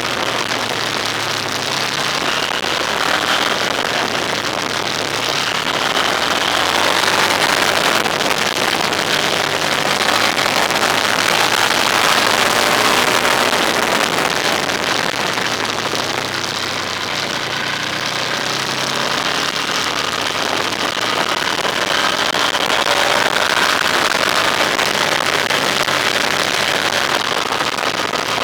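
A vehicle on the move: its engine runs with a pitch that drifts up and down as the speed changes, under a steady rush of wind and road noise.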